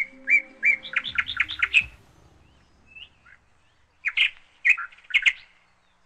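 A small bird chirping: a quick run of sharp chirps, a pause, then a second cluster of chirps about four seconds in.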